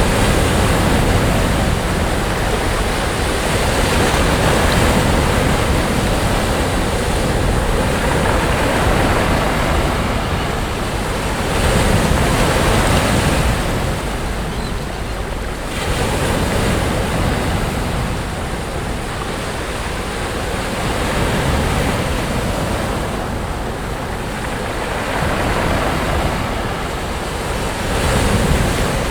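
Sea waves breaking on a beach: a continuous wash of surf that swells and falls back every few seconds, with stronger surges about twelve seconds in and near the end.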